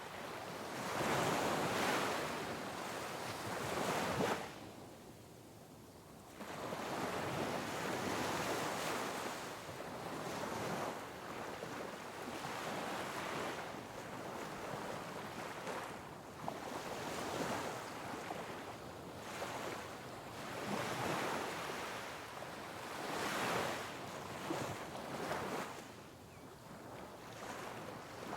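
Ocean waves breaking on rocks, the surf surging and ebbing in repeated swells. There is a short lull about four seconds in, then the wash rises again and keeps going.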